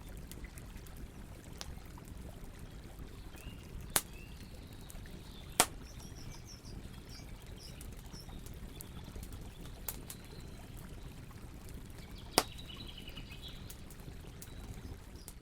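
Campfire crackling, with three sharp pops standing out over a steady low rush, and faint high chirps in the background.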